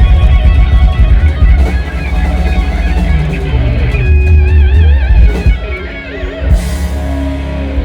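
Live rock band music, with an electric guitar holding long notes and wavering them with vibrato over a heavy bass and drums.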